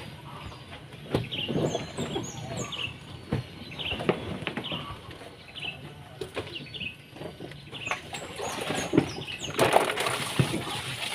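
Small birds chirping: short, high, downward-hooked chirps repeated every half second or so. A few sharp knocks, and a brief rustling burst of noise near the end.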